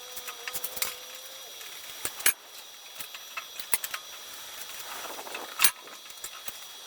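Light metallic clinks and clicks of tools and metal parts being handled, with a sharp knock about two seconds in and another, louder one near six seconds.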